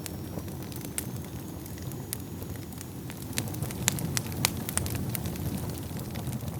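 Wood fire crackling in a fireplace: a steady low rumble of burning under many sharp pops and snaps, which come louder and more often about halfway through.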